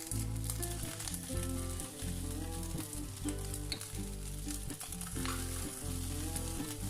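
Fried rice sizzling in a hot pan as it is scooped out with a spatula, over background music with stepwise bass notes.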